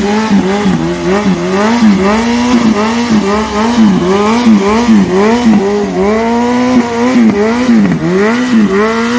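Motorcycle engine held at high revs during a burnout, its pitch repeatedly dipping and climbing back about twice a second.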